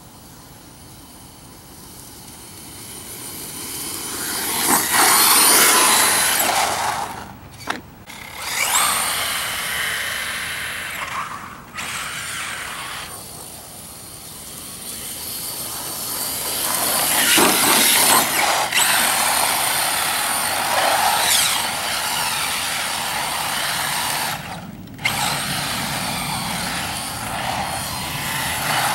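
Battery-electric 1/10-scale 4WD short course RC truck being driven hard: the motor and drivetrain whine swells and falls with the throttle, mixed with tyre and dirt noise, and cuts out suddenly several times.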